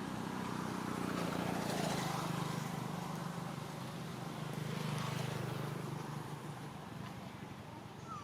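A vehicle engine running with a steady low hum that fades away over the last couple of seconds.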